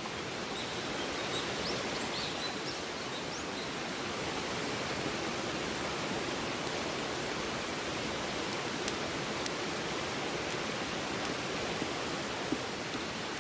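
A river flowing steadily, a constant rushing of water, with a few faint sharp pops from a wood campfire, about two-thirds of the way in and once near the end.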